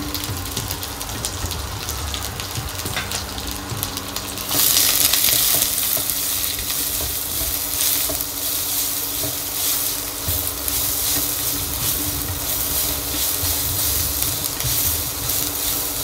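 Onion, garlic and ginger sizzling as they fry in hot olive oil in a nonstick pot, stirred with a spatula. The sizzle gets suddenly louder about four and a half seconds in and stays that way, over a faint steady low hum.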